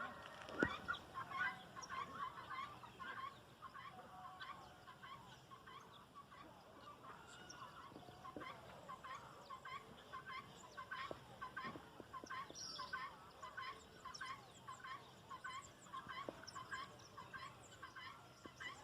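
A flock of helmeted guineafowl calling: short harsh notes repeated about twice a second, several birds overlapping in a steady chant.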